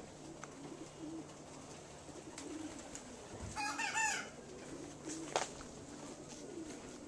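Racing homer pigeons cooing softly and repeatedly. About halfway through comes a louder, brief, higher bird call, and a sharp click follows a little later.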